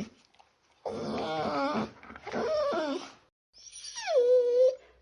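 A dog whining: three separate calls, the last falling in pitch and then held.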